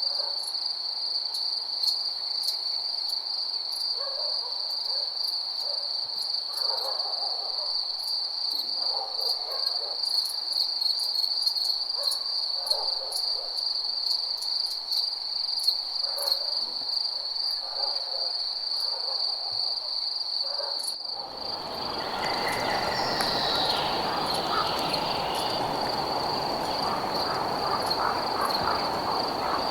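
Crickets trilling steadily in a high, continuous chorus, with fine high ticking over it. About two-thirds of the way through the soundscape changes abruptly: the ticks stop and a steady rushing noise comes in beneath the ongoing trill.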